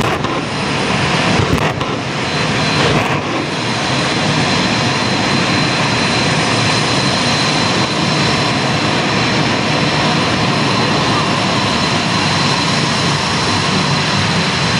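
Jet funny car's turbine engine running steadily: a loud rush with a high, unchanging whine.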